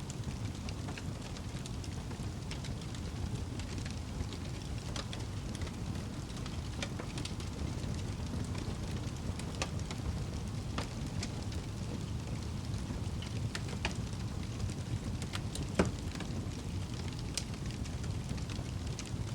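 Wood fire burning in a fireplace: a steady low rumble of the flames with scattered crackles and pops, one sharper and louder pop about three-quarters of the way through.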